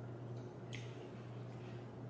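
Quiet chewing of a fried pickle, with two short, faint crackly mouth sounds less than a second apart, over a steady low hum.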